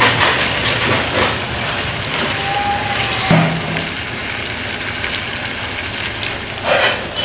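Minced meat with tomatoes frying in a wok, sizzling steadily while a spatula stirs and scrapes it through the pan, with a louder burst of sizzle near the end.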